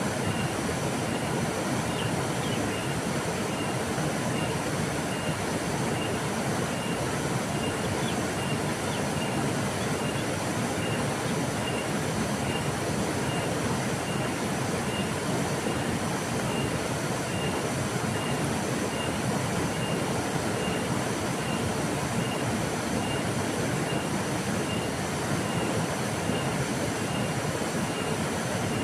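River water flowing steadily, an unbroken rushing wash. A faint high chirp repeats about twice a second throughout.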